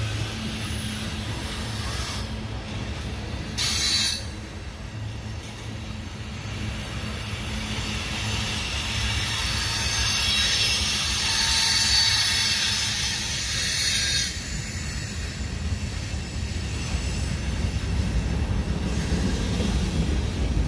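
Freight cars (GATX Tank Train tank cars, then gondolas) rolling past at close range: a steady rumble of wheels on rail, overlaid with high-pitched wheel squeal that is strongest through the middle. A brief louder burst comes about four seconds in.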